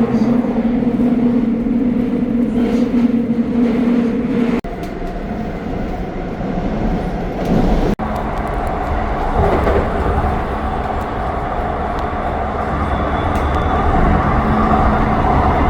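Train running, a steady rumble and hum with a low drone; the sound changes abruptly twice, at cuts about four and a half and eight seconds in.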